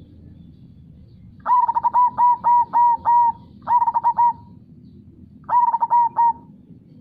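Zebra dove (perkutut) singing its cooing 'kung' song in three phrases of quick repeated notes: a long run of about seven notes, then a short one of three, then one of four. Under the song runs a low, steady rush of river water.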